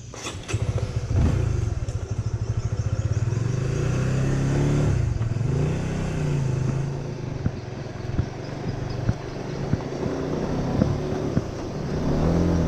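Honda Winner 150's single-cylinder engine starting and the motorbike pulling away, the engine pitch rising and dropping several times as it accelerates through the gears.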